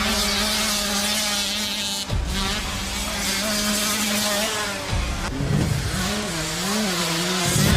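Motorcycle engine sound, rising and falling in pitch like a dirt bike being revved, over background music.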